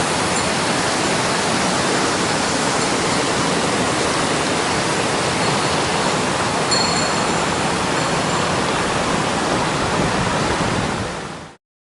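Mountain stream water rushing over rocks, a steady, even roar that fades out near the end.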